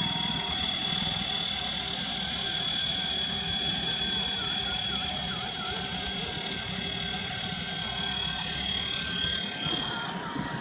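Wltoys V915-A SA 315B Lama RC helicopter's twin brushed electric motors, main and tail, running with a steady high whine.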